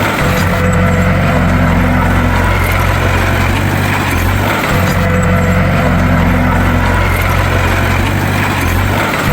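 Bulldozer's diesel engine running steadily at a constant pitch, with the same pattern of sound repeating about every four and a half seconds.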